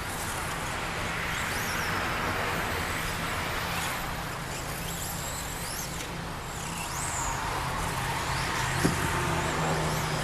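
Electric radio-controlled stadium trucks racing on a dirt track: high motor whines rising and falling as the trucks accelerate and brake, over a steady haze of tyre and dirt noise. A single sharp knock near the end.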